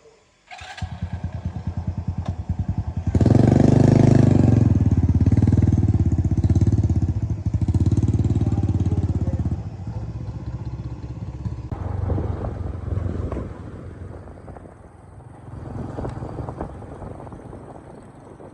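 Jeep engine cranked by the starter, with rapid even pulses. About three seconds in it catches and runs loudly, then drops back about ten seconds in to an uneven, wavering idle.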